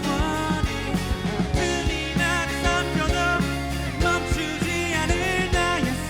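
A rock band playing with drums keeping a steady beat under sustained chords and a lead melody line that bends in pitch, with no words sung.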